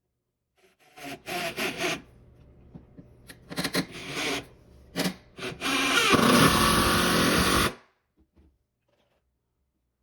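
Woodworking sounds: several short scraping, rubbing strokes of wood, then a louder steady noisy stretch of about a second and a half that stops suddenly.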